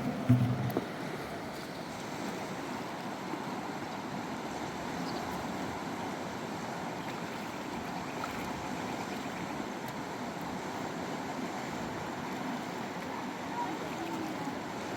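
River water rushing steadily over stones, a continuous even wash.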